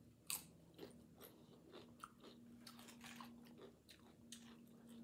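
Close-up chewing of salsa-dipped tortilla chips: a run of crisp, faint crunches at an uneven pace, the sharpest about a third of a second in.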